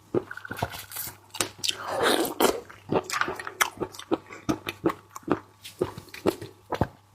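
Close-miked eating of seafood: wet chewing and smacking clicks in an irregular run, with a longer sucking slurp about two seconds in.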